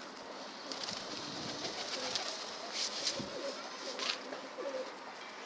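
Domestic pigeons cooing, low wavering calls repeating one after another, with a few brief rustles around the middle.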